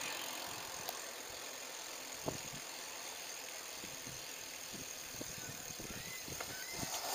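Steady hiss of a tandem bicycle rolling along, tyres on the road and air moving past, with a few faint clicks and knocks.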